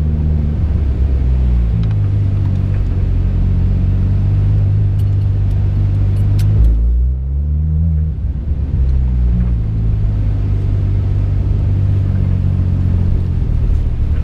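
Porsche 991.2 GT3 RS's 4.0-litre naturally aspirated flat-six running steadily as the car rolls through the paddock, heard from inside the cabin. The engine note shifts in pitch about a second and a half in, and dips and picks up again about seven seconds in.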